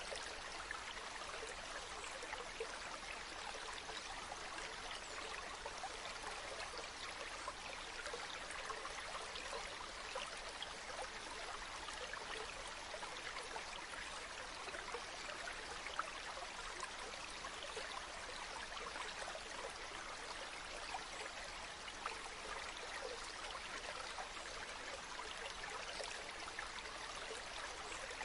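Running water rushing and splashing steadily, a dense even sound with many fine splashes in it.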